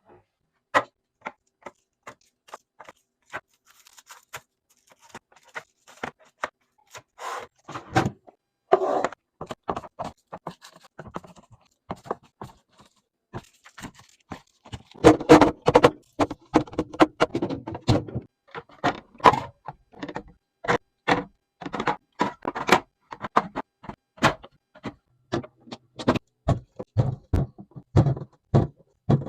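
Containers and food items handled and set down while a refrigerator is organised. Many irregular sharp clicks, taps and knocks are separated by near-silent gaps, with stretches of rustling about a quarter of the way in and again around the middle.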